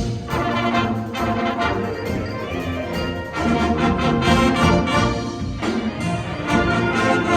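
Wind ensemble playing, with brass (trumpets and trombones) prominent over the full band and sharp accented hits.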